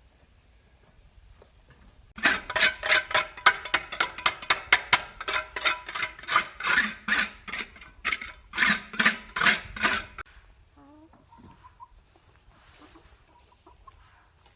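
Chicken cackling loudly: a rapid run of sharp clucks, several a second, starting about two seconds in and stopping after about eight seconds.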